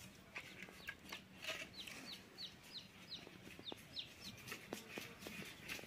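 A bird calling faintly in a run of about eight short, high, falling notes, about three a second, over light clicks and knocks of split firewood sticks being gathered and carried.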